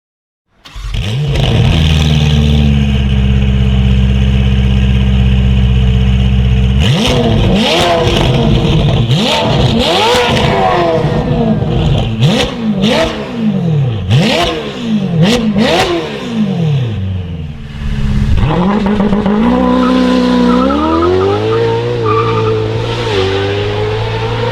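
Ferrari 488 Pista's twin-turbo V8 through a Novitec Race aftermarket exhaust. It runs steadily for several seconds, then is revved in a quick series of sharp blips, each rising and falling in pitch. Near the end the pitch climbs in steps.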